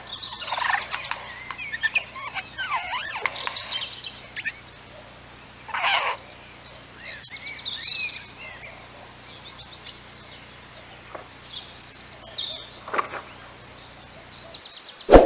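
Several birds calling, with many short high chirps and quick trills and a few louder, harsher calls between them. A sharp knock near the end.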